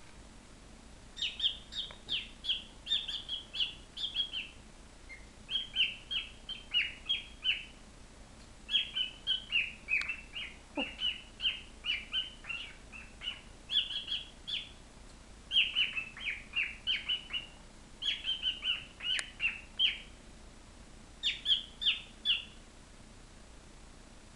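Pet bird singing: phrases of quick, sharp chirps, each note sliding downward, repeated over and over with short pauses between the phrases.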